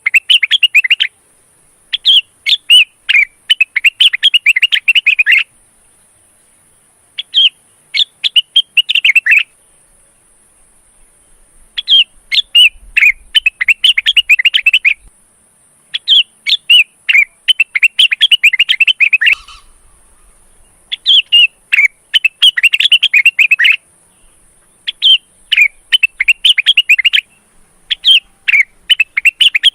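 Male greater green leafbird (cucak wilis) in breeding condition singing loud, rapid chirping phrases, each one to three seconds long, with short pauses between them.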